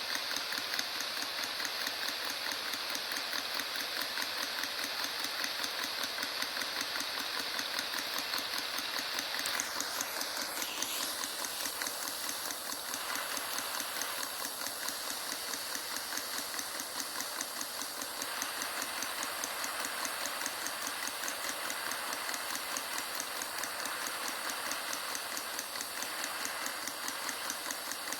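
Homemade miniature Stirling engine running steadily, its moving parts making a fast, even ticking.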